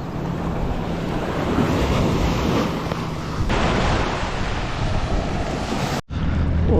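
Ocean surf washing on the beach, with wind buffeting the microphone. The sound changes abruptly about three and a half seconds in and cuts off near the end.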